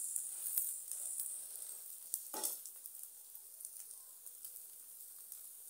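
Egg omelette frying in a non-stick pan: a soft, high sizzle that slowly fades, with a brief scuff about two and a half seconds in.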